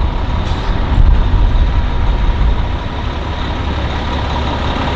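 Street traffic: motor vehicles, including a heavy truck or bus engine, running close by with a deep low rumble. The rumble is uneven for the first few seconds and then settles to a steadier level.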